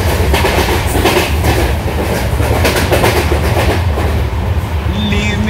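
Indian Railways passenger train running at speed, heard from inside a general-class carriage: a loud, steady rumble with the wheels clacking over rail joints.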